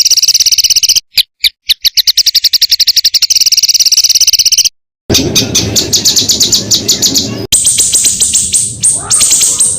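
Songbird tutor song (masteran) of rapid, harsh 'tembakan' trills: fast trains of high repeated notes. The recording is spliced, with a short break about a second in, a brief silence near the middle, and a switch to higher, thinner notes about three-quarters of the way through.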